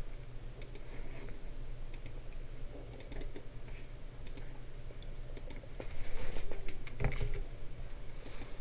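Typing on a computer keyboard, in scattered key clicks over a low steady hum, with a duller, louder bump about seven seconds in.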